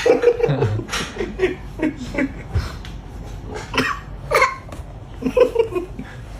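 A toddler's high voice in short broken bursts of babbling and giggling, with a few sharp clicks in between.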